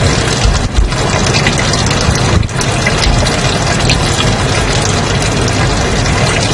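Steady white noise: an even hiss across all pitches, with two brief dips in level, about a second in and about two and a half seconds in.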